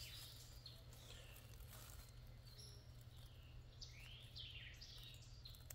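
Faint bird calls: a series of short chirps, most sliding down in pitch, over a steady low background noise.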